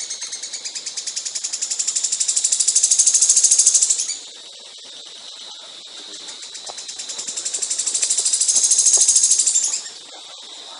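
Caged songbird singing rapid, high-pitched pulsed trills, the fast-fire bursts ('tembakan') prized in Indonesian songbird contests: one loud trill, a softer stretch, then a second trill that swells and breaks off near the end.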